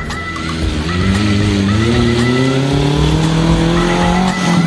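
Off-road racing buggy's engine accelerating hard, its pitch rising steadily for about four seconds, then falling away near the end.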